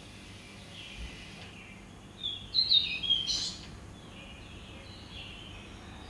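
Birds chirping: faint repeated high chirps throughout, with a short loud run of sharp high notes between about two and three and a half seconds in.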